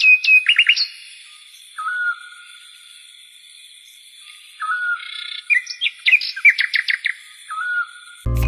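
A songbird singing in repeated phrases, each a short whistled note followed by a quick series of rising chirps, with pauses of a couple of seconds between bouts. Just before the end, a very loud short burst cuts in.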